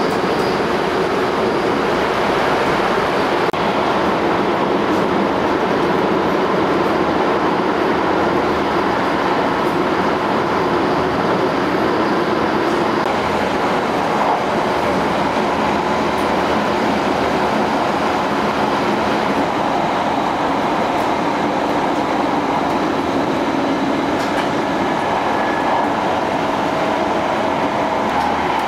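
Tohoku Shinkansen train running at speed, heard from inside the vestibule between cars: a steady, unbroken running noise.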